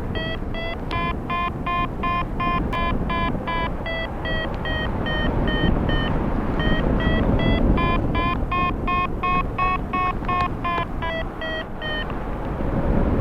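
Paragliding variometer beeping in a string of short tones over wind rushing past the microphone. The beeps come quickly for the first few seconds, slow down in the middle and quicken again about eight seconds in: the glider is climbing in ridge lift, the climb rate rising and falling.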